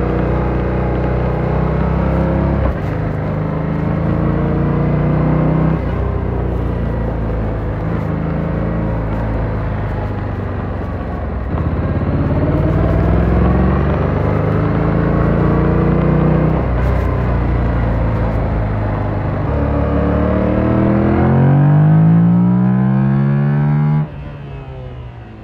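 Motorcycle engine under way, its pitch climbing and dropping back several times through gear changes. Near the end the revs climb steadily, then the sound falls away sharply.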